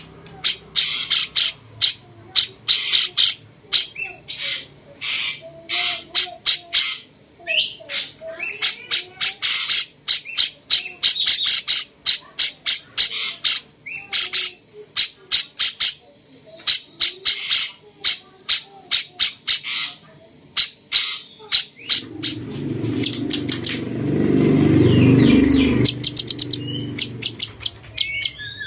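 A cucak cungkok singing a rapid string of short, sharp, high notes in quick bursts, its song carrying a cucak jenggot-like character. A low rumbling noise rises under the song for a few seconds near the end.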